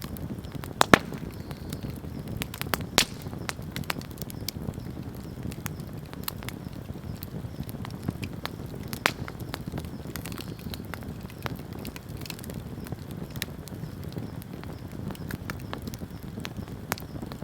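Wood campfire burning: a steady low rumble of flames with irregular sharp crackles and pops from the burning wood, the loudest pops just under a second in and about three seconds in.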